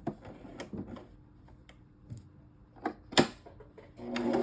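Scattered light clicks and taps of handling at a sewing machine, with one sharp click about three seconds in. Near the end an electric sewing machine starts stitching: a steady motor hum with rapid needle ticks.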